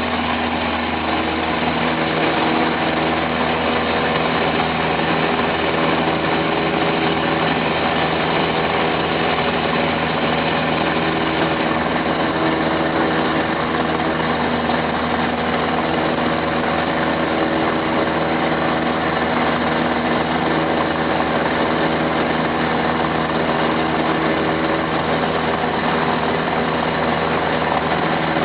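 Cessna 172's piston engine and propeller running steadily, heard from inside the cabin, with an even drone and no clear change in speed.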